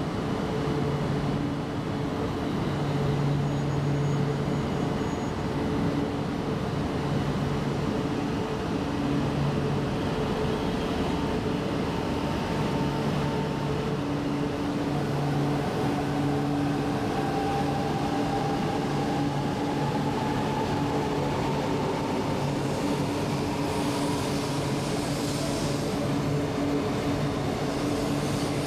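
E4 series Shinkansen electric train running, a steady rumble and hum with a whine that climbs slowly in pitch over the second half.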